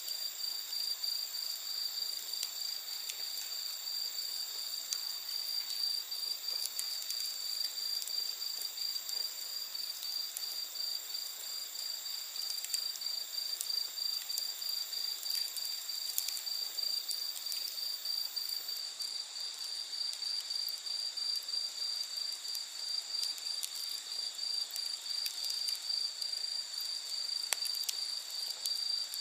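Crickets and other night insects chirring in a steady, finely pulsing chorus, with faint crackles from a wood bonfire now and then.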